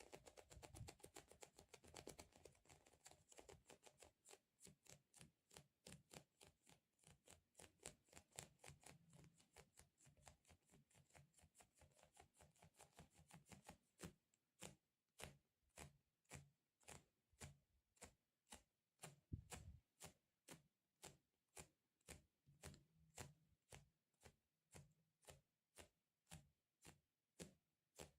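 Quiet, even run of crisp sticky taps, like fingertips patting and lifting off a tacky surface: about three a second at first, then about two a second from about halfway through.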